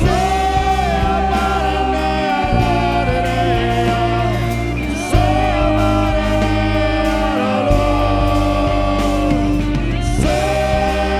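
Live worship band music with singing: long held notes over a steady bass, the chord changing about five seconds in and again near the end.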